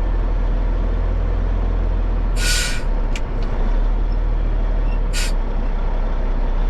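Dump truck's diesel engine running steadily, with two short hisses of released air about two and a half and five seconds in, and a small click between them.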